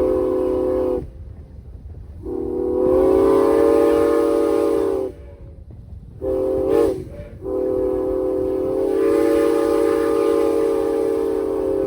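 Steam whistle of Norfolk & Western No. 475, a steam locomotive, sounding the grade-crossing signal: long, long, short, long. Each blast is a steady chord of several notes, and the short blast wavers briefly in pitch.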